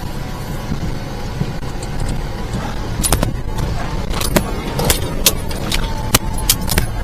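Kei mini truck's small engine running under load inside the cab while driving over rough snowy, muddy ground. From about three seconds in, loose items on the dashboard rattle and knock with the bumps.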